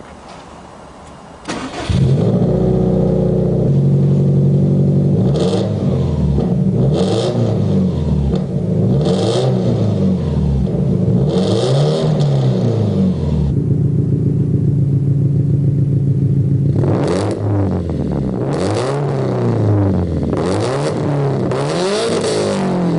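Subaru Impreza GDB's EJ20 flat-four, running through a Tomei titanium cat-back exhaust, starts up about a second and a half in and is then revved in a series of free-revving blips. It settles to idle in the middle, then more blips follow. It gives a dry racing sound without the usual boxer rumble, because the engine has equal-length headers.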